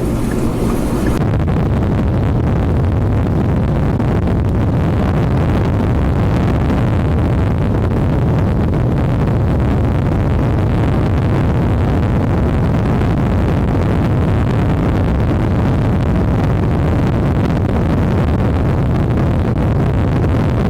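Steady low rumbling noise of strong wind buffeting the microphone.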